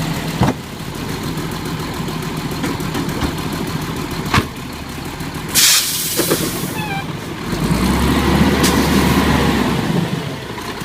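Garbage truck's diesel engine idling, with a couple of sharp knocks and a short burst of air hiss about halfway through. Near the end the engine gets louder and revs for about two seconds, then settles back.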